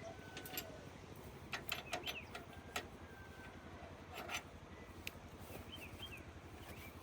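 A few sharp metallic clinks of hand tools and parts during repair work, clustered about two seconds in and again a little after four seconds, over a steady low mechanical drone. A few short bird chirps near the end.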